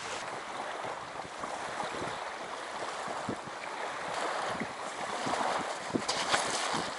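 Strong wind blowing over the microphone with water lapping at the shore, the wind swelling a little in the second half, with a few small scattered knocks.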